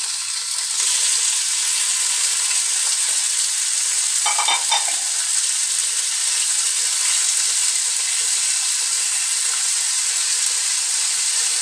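Marinated chicken sizzling as it fries in hot oil with garlic and onion, stirred with a wooden spatula; the sizzle gets louder about a second in as the chicken goes into the pan.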